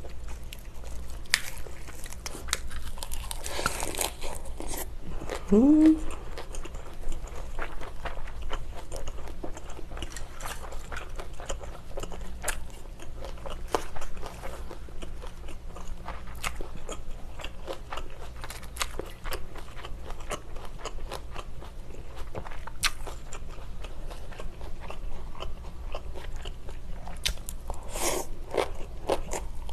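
Close-miked chewing of a lettuce wrap filled with spicy braised pork ribs: many small crisp crunches and wet mouth sounds, with a short rising hum from the eater about six seconds in. Near the end, noodles are slurped in a quick cluster of strokes.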